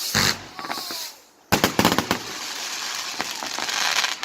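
Fireworks going off: a hissing burst at the start, then a sharp bang about a second and a half in followed by a quick run of cracks and a long crackling hiss that grows louder toward the end.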